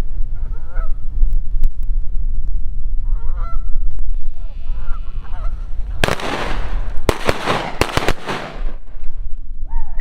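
Canada geese honking a few times, then about six seconds in a rapid volley of several shotgun blasts over two and a half seconds. Low wind rumble on the microphone underneath.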